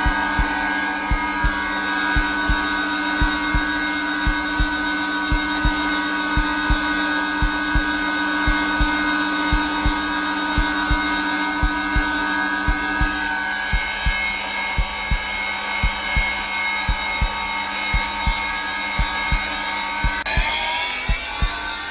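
Zelmer vacuum cleaner motor running steadily on its lowest setting, with a repeating low heartbeat thump mixed over it. Near the end the motor's whine rises in pitch.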